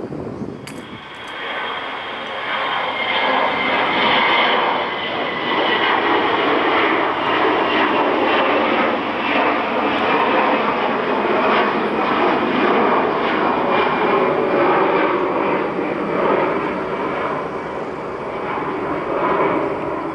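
Jet airliner's engines at takeoff power, growing loud about two seconds in and staying loud, with a high whine that slowly falls in pitch.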